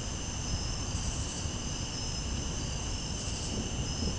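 Night chorus of crickets trilling steadily and high, with two brief louder bursts of higher chirring, over a low, even rumbling noise.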